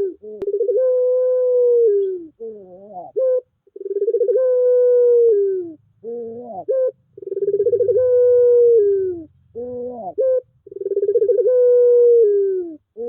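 Puter pelung, a long-cooing Barbary dove breed, cooing: four long, pulsing coos of about two seconds each that drop in pitch at the end, each followed by a few short rising and falling notes. It is a lure song played to set a puter that has stopped cooing singing again.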